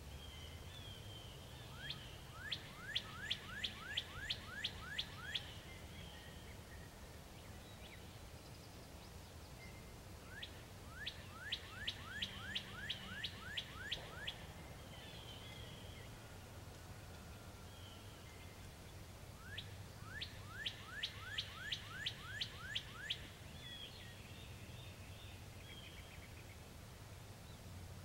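A songbird singing three bouts, each a quick series of about a dozen sharp notes sweeping downward, the bouts about eight seconds apart. Fainter short chirps come in between, over a low steady background hum.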